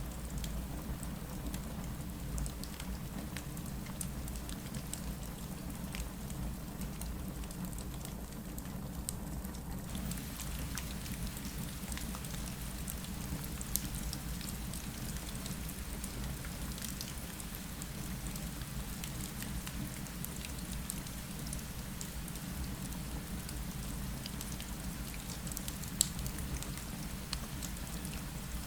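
Rain falling against a window, a steady hiss over a low rumble, with fireplace crackles scattered through it. The hiss grows brighter about a third of the way in, and one crackle near the end stands out louder than the rest.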